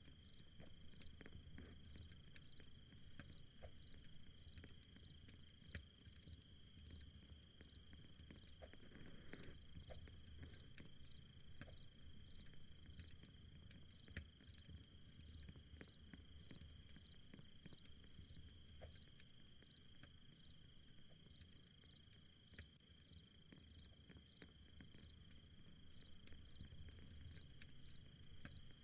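Insects calling: a steady high-pitched trill with a regular chirp repeating about one and a half times a second, faint and unbroken.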